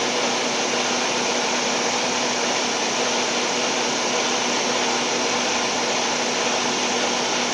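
Steady mechanical drone of running machinery, an even rushing noise with a constant low hum that does not change.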